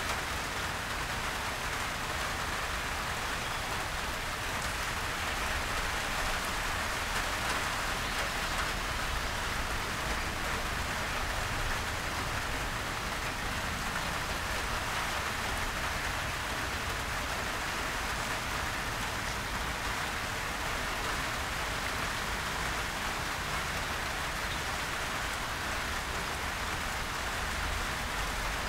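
Heavy rain falling steadily on garden foliage, a dense, even hiss with a low rumble underneath.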